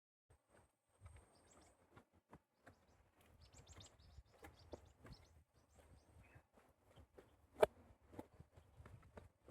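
Footsteps on a rough dirt path, irregular scuffs and knocks, one sharper step about three quarters of the way through, with small birds chirping faintly in the background.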